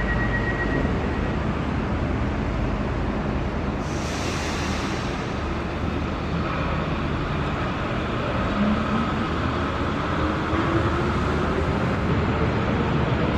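Diesel engines of a crawler excavator and a farm tractor running steadily. There is a short hiss about four seconds in, and an engine note rises steadily over the second half as a machine revs up.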